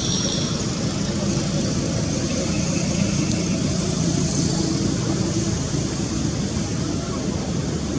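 Steady background rumble and hiss, with no clear calls or distinct events.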